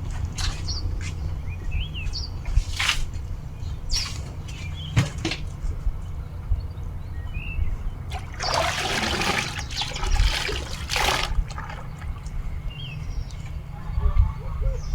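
Water splashing and pouring in irregular bursts as clothes are washed by hand, with small birds chirping now and then.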